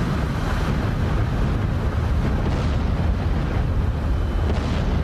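Jet aircraft engine noise: a steady, deep rumble.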